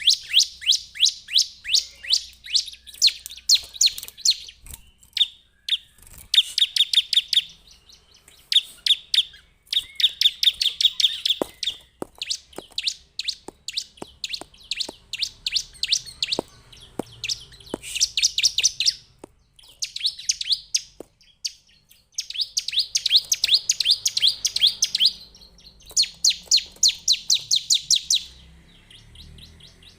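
Bar-winged prinia (Prinia familiaris) singing: rapid trains of sharp, high chipping notes, repeated in bursts of a second to a few seconds with short pauses between them.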